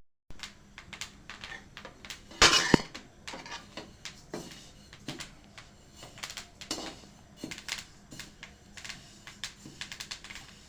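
Kitchen utensils and dishes being handled: a run of short clicks and knocks, with a louder clatter about two and a half seconds in.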